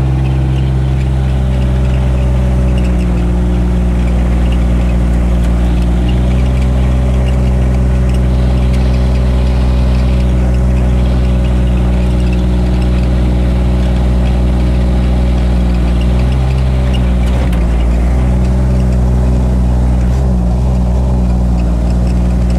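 Engine of a Gator utility vehicle running steadily as it drives, heard from on board; the engine note wavers briefly a few seconds before the end.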